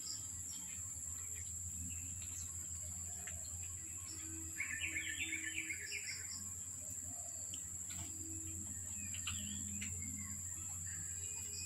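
Birds chirping in the background, with a quick burst of rapid twittering about five seconds in, over a steady high-pitched drone.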